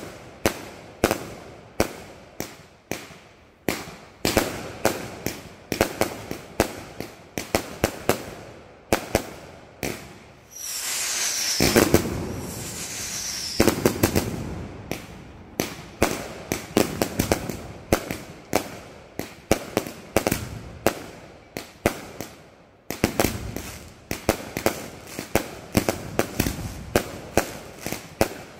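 Aerial fireworks going off in rapid succession, a dense run of sharp bangs several times a second. About ten seconds in there is a few seconds of continuous hissing with two falling whistles, before the bangs resume.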